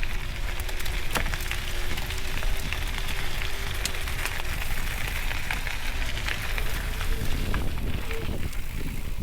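Mountain bike rolling over a wet, rough trail: tyres on gravel and rock with a steady hiss, and many small clicks and rattles from the bike.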